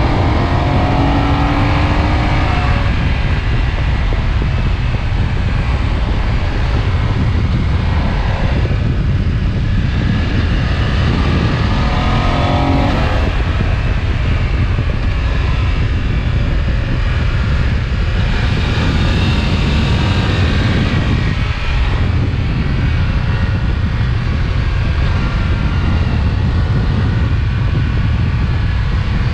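BMW F900XR's 895 cc parallel-twin engine and exhaust heard from the saddle while riding, under a heavy low rumble of wind and road noise. The engine note rises and falls a few times with the throttle, near the start and again around the middle.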